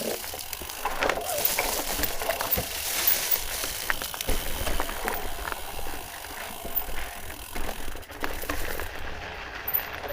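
Footsteps scuffing and clicking on rock over a steady rushing hiss, with scattered short knocks and rattles.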